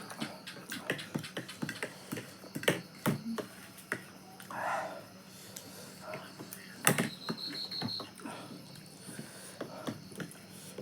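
Eating sounds close to the microphone: a run of sharp mouth clicks, lip smacks and chewing, with a short vocal sound about halfway and one louder click near seven seconds in.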